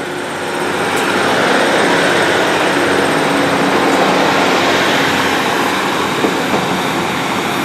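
Diesel multiple unit pulling out of the station, its engine running under power. The sound builds over the first second or so, then holds as a loud, steady rumble with a faint low hum in it.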